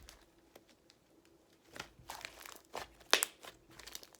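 Crinkling, crackling handling noise: a run of small sharp clicks and crackles starting about two seconds in, the loudest crack a little after three seconds.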